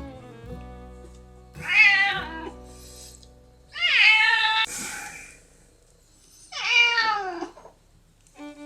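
A domestic cat meowing three times, each call under a second long, the last one sliding down in pitch.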